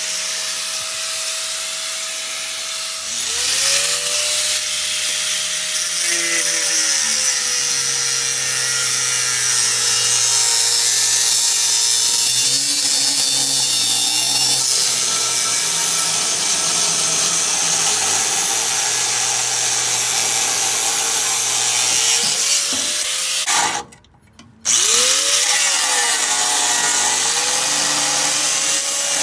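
Angle grinder cutting metal, a loud hiss over a motor whine whose pitch sags and recovers with the load. About three quarters of the way through it stops for under a second, then spins back up.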